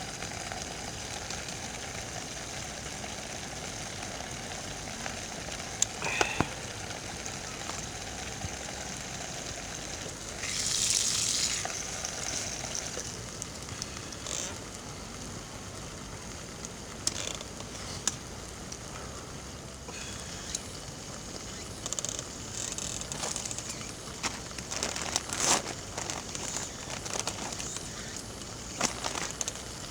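Campfire crackling, with scattered sharp pops and a louder hissing flare-up about eleven seconds in.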